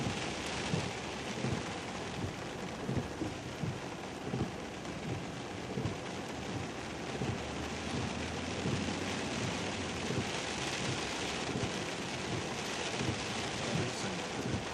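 Steady splashing, rushing water noise of floodwater running through a drainage ditch, with irregular low thumps underneath.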